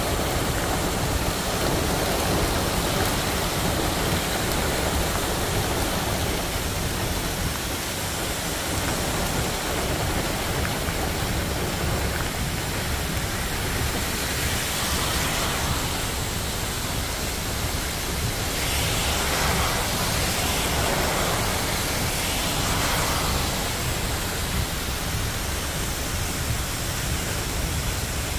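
Steady rush of heavy rain with a constant low rumble underneath, swelling into a few louder hisses past the middle.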